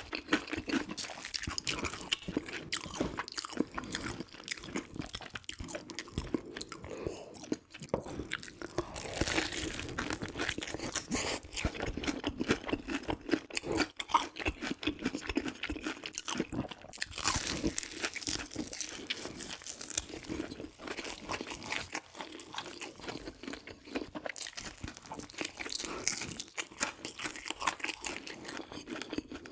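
A person biting into and chewing crispy fried food, with repeated crunches throughout.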